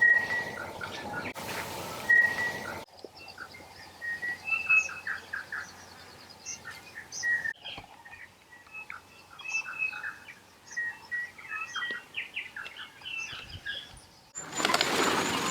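Songbirds singing and calling: a mix of short whistled notes, chirps and trills. It comes in several pieces joined with abrupt cuts, and a louder, noisier passage begins near the end.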